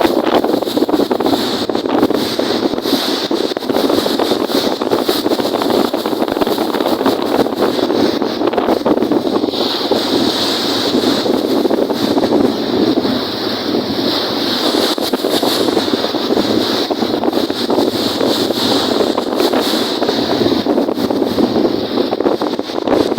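Strong wind buffeting the microphone over a wind-whipped lake with waves, a steady loud rush of noise.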